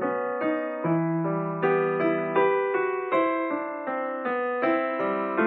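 Background piano music: a gentle run of struck notes over held chords, two or three notes a second.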